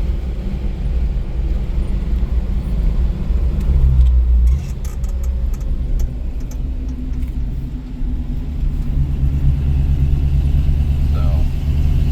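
1973 International Scout II engine running on the move with road rumble, building up to about four seconds in, dropping off sharply, then pulling up again from about eight seconds. A scatter of faint clicks sounds in the middle.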